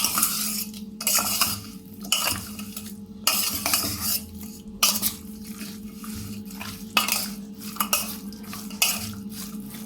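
A spoon scraping and clinking in a vessel in irregular strokes, mixing raw chicken pieces with salt, turmeric and crushed black pepper.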